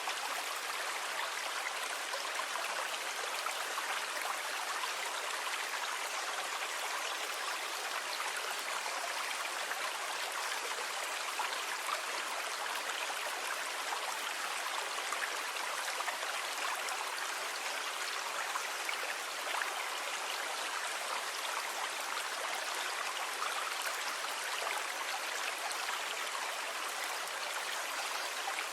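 Sea water rushing in a steady, even wash, with no separate wave crashes standing out.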